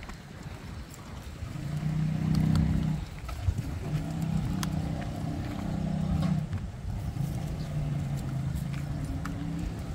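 A motor vehicle engine running with a steady low hum that swells about two seconds in and carries on. Light clicks of steps on the paving sound over it.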